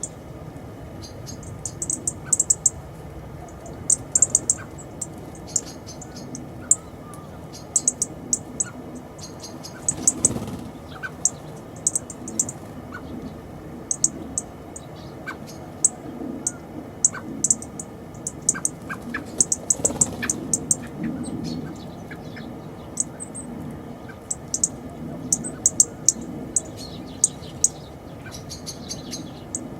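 Small songbirds chirping: many short, high chirps, often in quick clusters, over a steady low background.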